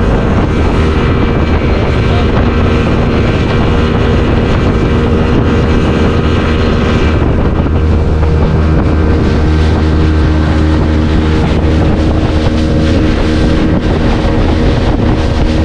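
Speedboat engine running steadily under way, with the rush of water and wind buffeting the microphone. About halfway through the hiss eases and the engine note shifts.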